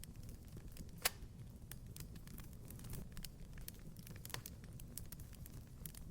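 Wood fire crackling in a fireplace: irregular small pops and snaps over a low steady rumble, with one sharp pop about a second in.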